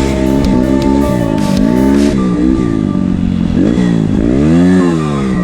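Music playing, with a motorcycle engine revving up and down repeatedly, rising and falling in pitch about once a second.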